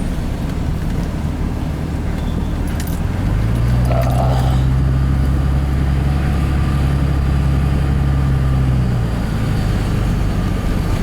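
Truck engine and road noise heard from inside the cab while driving, a steady low drone that grows louder and fuller from about three seconds in until about nine seconds in, then eases back.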